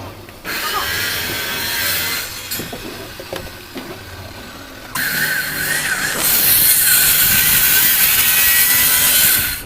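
Power tool cutting wooden boards in two passes, a short one about half a second in and a longer one starting about halfway through. Each pass is a loud, noisy cut with a steady motor whine.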